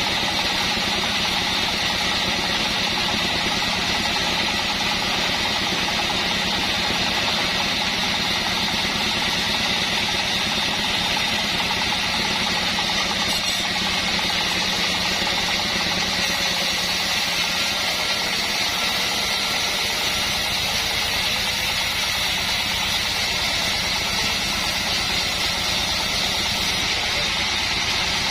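Engine of an assembled band sawmill running steadily, an even mechanical sound that does not change.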